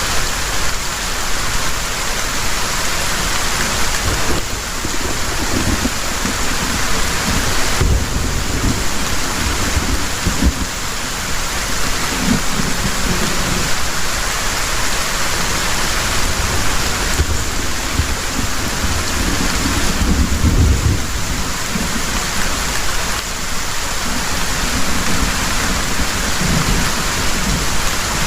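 Heavy rain falling steadily as a dense hiss, with low thunder rumbling through it in several swells, strongest about 20 seconds in.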